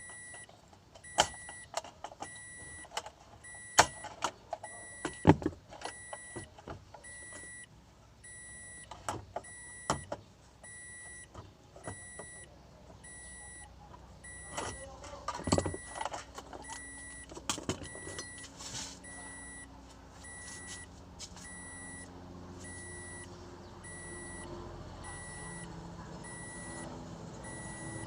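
Metal tools clinking and knocking irregularly during hands-on work on a car, over a steady run of short, evenly spaced high beeps. A low steady hum comes in over the last several seconds.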